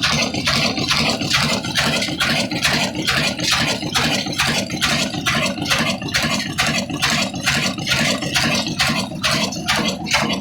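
Old single-cylinder 'Kala' desi diesel engine running slowly while driving an atta chakki flour mill, each firing a sharp knock about three times a second over a steady rumble.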